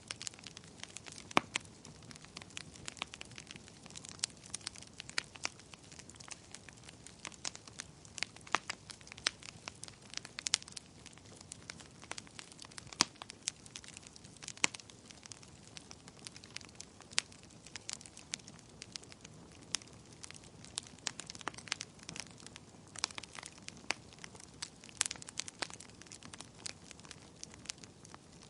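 Wood fire burning in a fireplace: logs crackling and popping irregularly, with many sharp snaps over a soft steady hiss.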